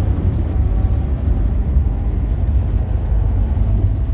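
Bus engine and road noise heard from inside the cabin: a steady low rumble.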